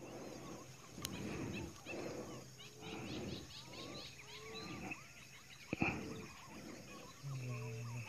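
Wild birds calling in short, gliding whistled notes that repeat about once a second, with faint high chirping behind them. A single sharp click comes a little before six seconds in.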